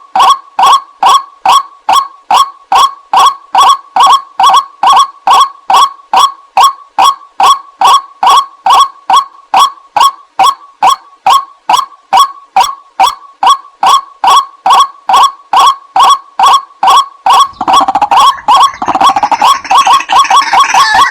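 Playback of white-breasted waterhen (ruak-ruak) calls used as a lure: a short, harsh, pitched call repeated evenly about two and a half times a second. A few seconds before the end the calls start to overlap and run denser, as if several birds were calling together.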